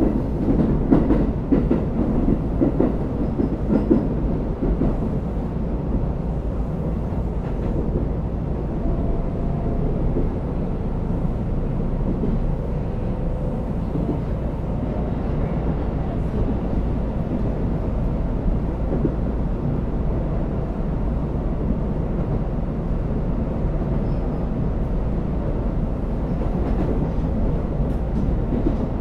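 Shinkeisei Electric Railway Series 8900 electric train running at speed, heard from inside motor car MOHA 8916: a steady rumble of wheels on rail. There are some knocks over the track in the first few seconds.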